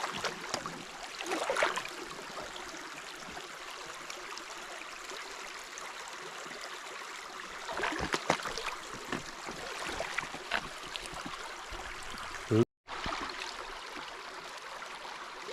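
Shallow creek water running steadily, with a few brief splashes about a second and a half in and again around eight and ten seconds. The sound cuts out for a moment near the end.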